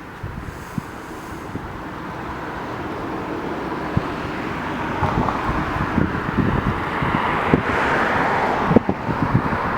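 Wind gusting over the microphone, with low buffeting thumps and a rushing noise that builds over several seconds and is strongest near the end.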